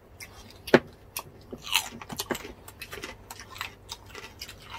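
Biting and chewing crispy deep-fried pork skin (crispy pata and bagnet): a run of short crisp crunches and mouth clicks, the loudest crunch a little under a second in.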